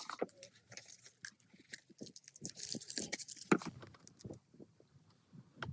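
Hand work on metal parts: irregular light taps and clicks, with a stretch of scraping between about two and a half and three seconds in.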